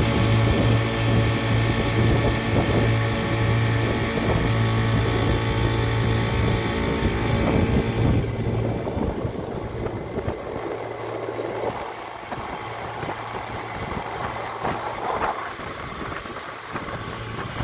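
Motorboat's Yamaha outboard engine running steadily under way, with water and wind noise. About eight seconds in the engine eases off and runs quieter for the rest, as the boat slows.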